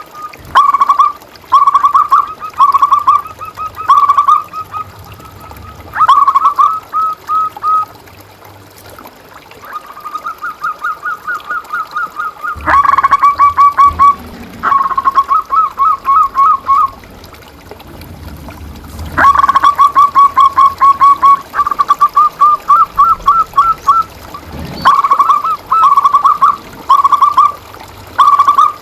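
Zebra dove (perkutut) cooing: phrases of quick, clipped, high notes repeated again and again with short pauses between.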